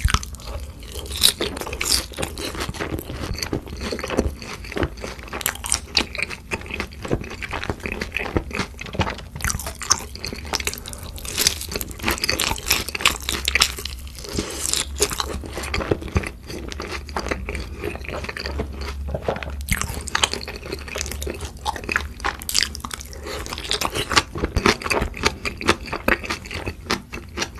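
Biting and chewing sauce-glazed fried chicken, an unbroken run of crisp crunches and wet chewing.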